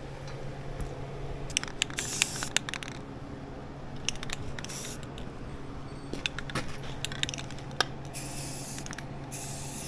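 Aerosol can of spray primer hissing in several short bursts, with scattered light clicks between them. A steady low hum runs underneath.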